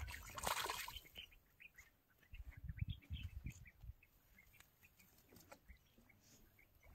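Small birds chirping faintly and repeatedly, with a brief rush of noise about half a second in and short spells of low rumble.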